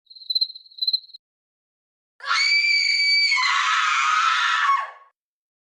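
Two short high chirps, then a loud, high-pitched scream held for about three seconds that turns rougher partway through.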